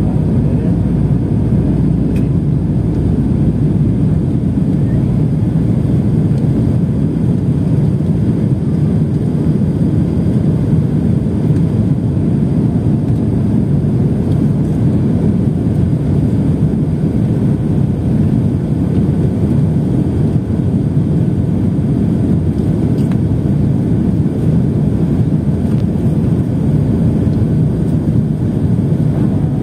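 Passenger airliner's engines and rushing air, a steady low rumble that holds even throughout, with faint steady tones above it.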